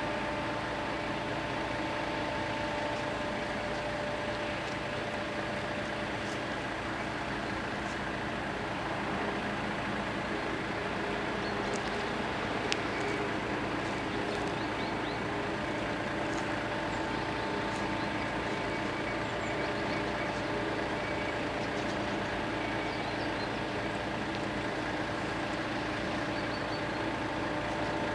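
Freight train rolling past a level crossing: a steady, even running noise with a few steady tones through it.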